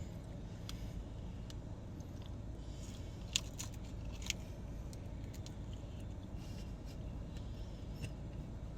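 Steady low rumble of a car idling, heard from inside the cabin, with a couple of short sharp clicks about three and a half and four and a quarter seconds in.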